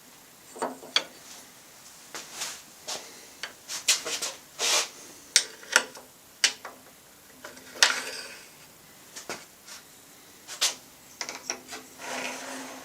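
Irregular clicks, knocks and short scrapes of metal parts being handled and slid on a table saw: the mitre gauge, the fence and a bolt, set up to check the fence's alignment with the blade. A few scrapes run longer, one about a third of the way in and one near the end.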